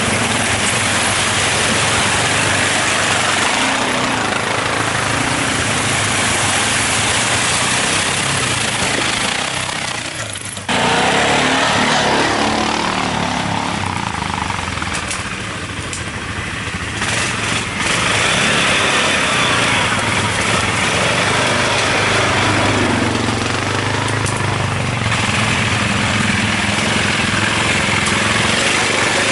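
ATV (quad bike) engine running while riding, its pitch rising and falling with the throttle, under a heavy rush of wind and rough-ground noise on the microphone. The sound breaks off and comes back abruptly about ten seconds in.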